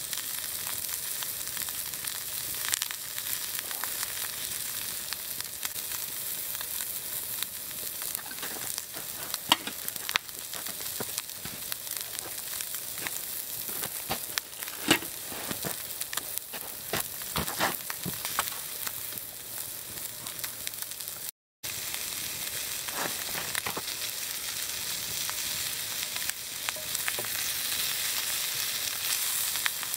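Ground beef sizzling in a cast iron skillet over a campfire: a steady frying hiss with scattered sharp pops and crackles. The sound drops out for a moment about two-thirds of the way through.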